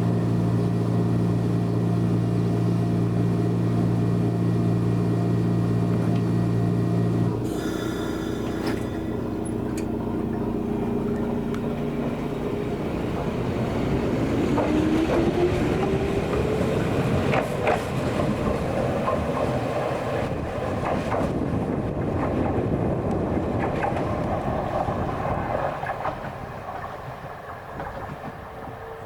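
Toyama Chiho Railway electric train pulling out: a steady low hum stops about seven seconds in, then the motor whine rises as the train gathers speed and the wheels click over the rail joints. The sound fades toward the end.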